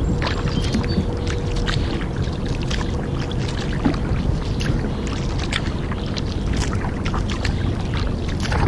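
Kayak paddling: the paddle blades dip and splash, with many small drips and trickles of water against a steady wash of the hull moving through the water.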